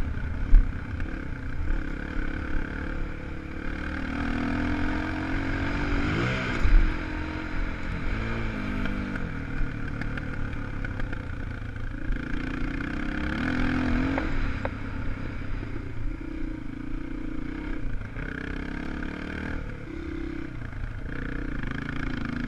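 Single-cylinder 250 cc four-stroke enduro motorcycle engine revving up and down repeatedly while riding an off-road track, with rattling and two sharp knocks, about half a second in and about seven seconds in.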